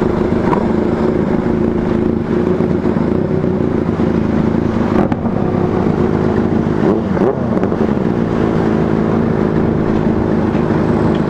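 Benelli motorcycle engines running steadily at an even pitch.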